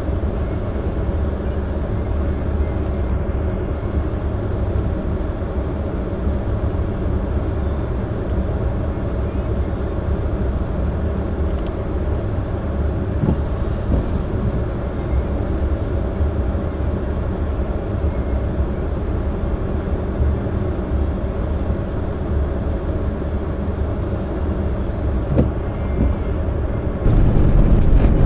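Steady low rumble of a car driving. It gets noticeably louder about 27 seconds in.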